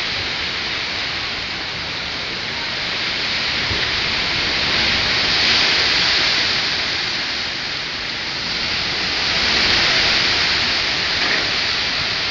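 Heavy hurricane rain, a steady hiss that swells louder twice, around six and ten seconds in.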